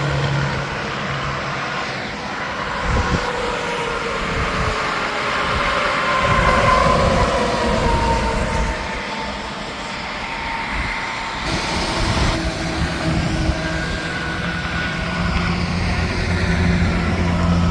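Interstate highway traffic with tractor-trailers passing at speed: steady tyre and engine rumble, with a tyre whine that drops in pitch as a vehicle goes by midway through.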